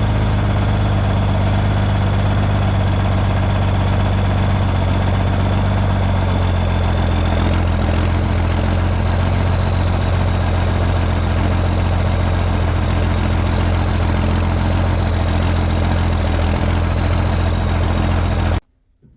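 Straight-piped John Deere 4630's six-cylinder diesel idling steadily and loudly, with no revving. It stops abruptly near the end.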